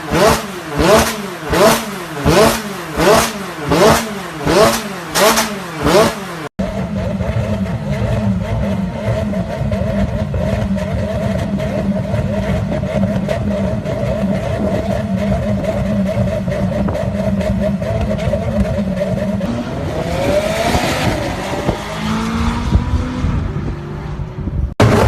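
McLaren 600LT's twin-turbo V8 exhaust revved in quick repeated throttle blips, about one every three-quarters of a second. After a cut, the engine runs steadily with frequent sharp crackles from the exhaust, and rises in pitch as it accelerates near the end.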